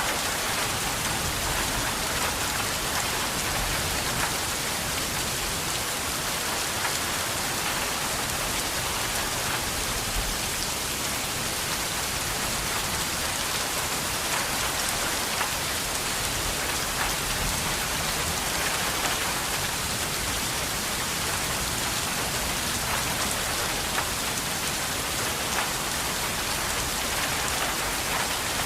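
Steady rain falling, an even hiss of rainfall with scattered individual drops pattering on a surface.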